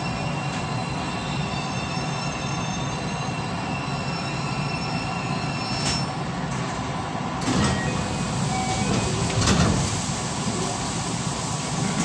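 JR West 223 series electric train running, heard from on board: a steady rumble with faint high squeal tones early on. About 7.5 s in the noise jumps up suddenly and swells louder around 9.5 s.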